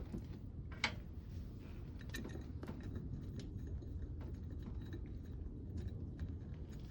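Scattered light clicks and taps of hand tools and pump-cover parts being handled during reassembly of a marine raw-water pump, with one sharper click about a second in, over a steady low hum.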